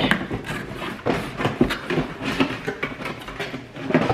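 Handling noise as cake stands are unpacked and set out: a string of short knocks and clicks with rustling in between.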